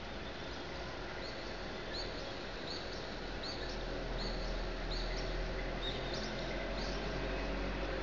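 A bird repeating a short rising chirp about once every three-quarters of a second, nine or ten times, over a steady background hum and hiss of the city at dawn.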